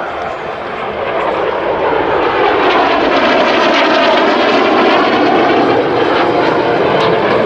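Aero L-39 Albatros jet engine noise passing by, swelling over the first few seconds to a loud, whooshing peak and starting to ease near the end.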